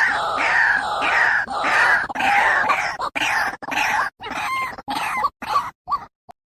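White-breasted waterhen (ruak-ruak) calling: a rapid, rhythmic series of loud, harsh repeated notes, about two or three a second. The calls break into short separate fragments over the last few seconds and stop about six seconds in.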